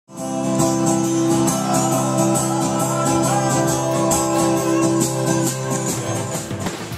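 Band music led by guitar: strummed chords in a steady rhythm over held low notes, which die away near the end.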